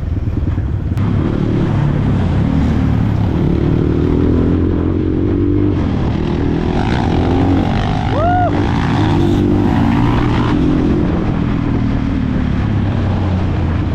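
Dirt bike engine running steadily. A short high tone rises and falls about eight seconds in.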